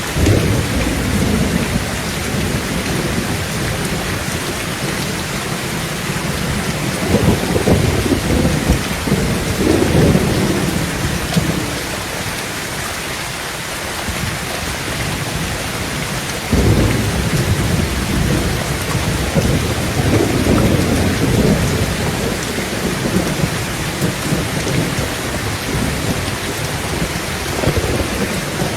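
Heavy rain falling steadily on a tin tent roof, with thunder rolling in several times: once right at the start, in two longer rolls through the middle, and once more near the end.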